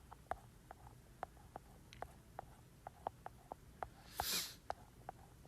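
Faint, irregular light clicks, several a second, with a short breath at the microphone about four seconds in.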